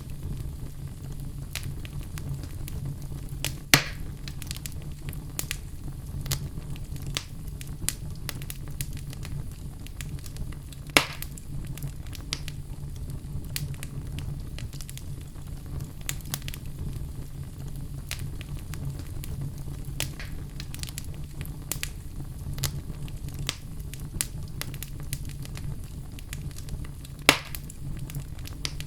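Wood fire burning in a fireplace with a steady low rumble and frequent small crackles, and three loud pops spaced several seconds apart.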